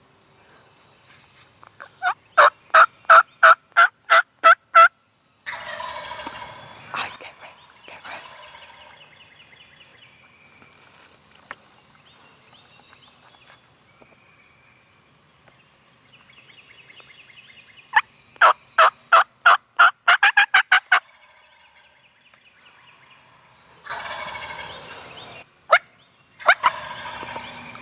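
Turkey yelping: two runs of about ten evenly spaced notes, the loudest sounds here. Each run is answered a moment later by a wild turkey gobbler gobbling, twice near the end.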